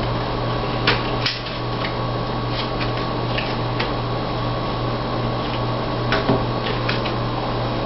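A few short clicks of trading cards being laid down and handled on a table, over a steady low hum and hiss.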